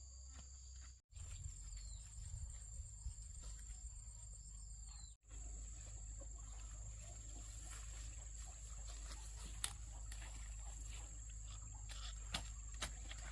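Faint outdoor ambience with a steady high-pitched insect drone and a few scattered sharp clicks. The sound cuts out completely for a moment twice, about a second in and again about five seconds in.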